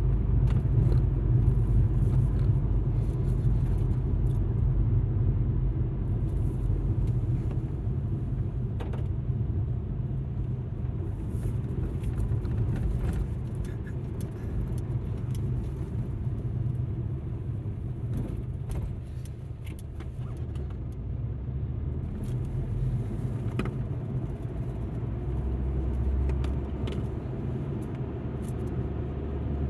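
Alfa Romeo MiTo on the move: a steady low engine and road drone, with faint scattered clicks and rattles. It eases a little about two-thirds of the way through, then builds again.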